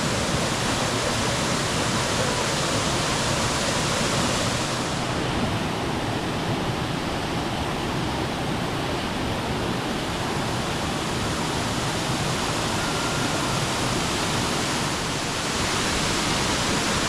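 Minoo Falls' water plunging and rushing in a steady, even roar of noise. The hiss dulls slightly from about five seconds in and brightens again near the end.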